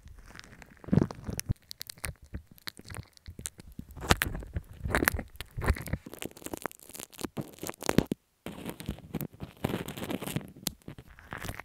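Close-miked crackling, crunching and scraping of ASMR props worked right against an earphone microphone, in quick irregular clicks and crunches, cutting to silence for a moment about eight seconds in.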